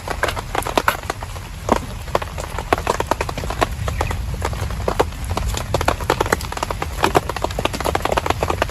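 Heavy rain, with large drops hitting a camp shelter in dense, irregular sharp taps over a steady low rumble.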